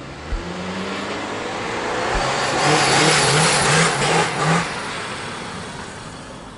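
A car accelerating, its engine and road noise building up to a peak about three seconds in and then easing off.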